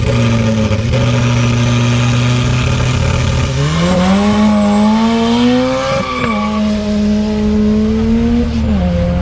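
Drag-racing car engines revving hard: held at a steady high rev, then climbing sharply in pitch about four seconds in and holding high before dropping back a little near the end.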